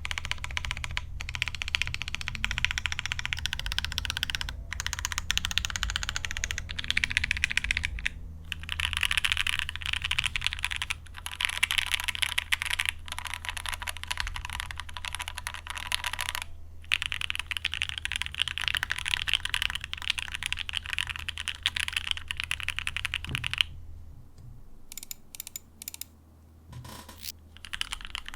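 Typing on a GOK 7V 75% gasket-mount keyboard with lubed and filmed H1 switches, a polycarbonate plate and PBT keycaps, without the tape mod: a fast, continuous run of keystrokes broken by short pauses. Near the end the typing drops to a few single key clicks, then picks up again.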